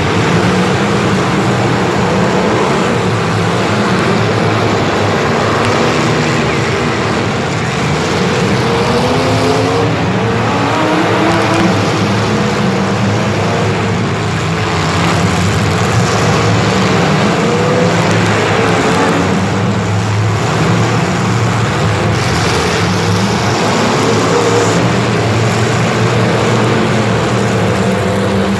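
Motor vehicle engines running and revving, their pitch rising and falling again and again.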